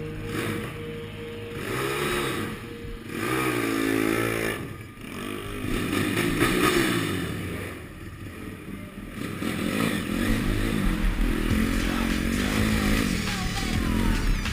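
Pit bike engine revving up and down several times, with music underneath.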